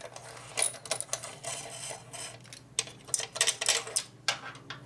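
Irregular metallic clicks and short scrapes of hand tools and metal parts being handled and worked, over a faint steady low hum.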